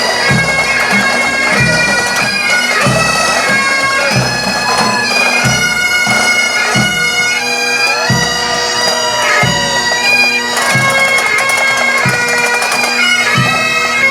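Pipe band playing: bagpipes with a steady drone under the chanter's melody, and a bass drum keeping a steady marching beat.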